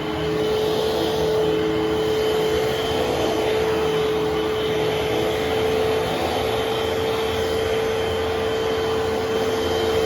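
Eureka vacuum cleaner running steadily, its motor giving a constant whine over a rush of air.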